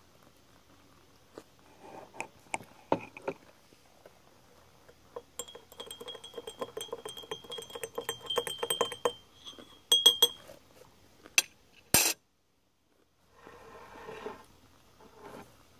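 Glassware and utensils clinking, with a dense run of quick clinks over a steady ringing tone in the middle, then a few loud single clinks.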